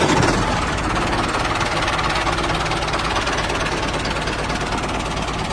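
Tractor engine running steadily with a fast, even chugging knock.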